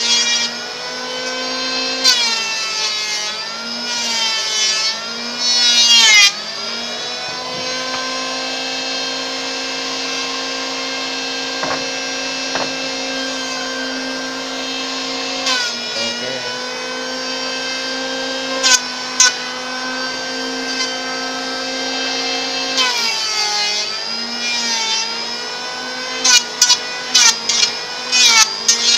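Electric wood planer running with a steady high whine, its pitch sagging again and again as the blades bite into a board edge being straightened, then recovering while it runs free. Several sharp knocks near the end.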